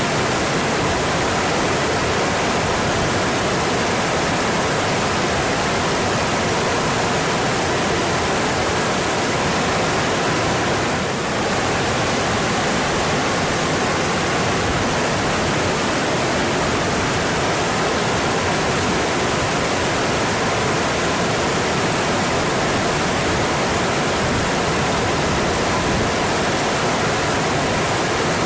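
Mountain stream flowing steadily: a dense, even rush of water, briefly a little softer about eleven seconds in.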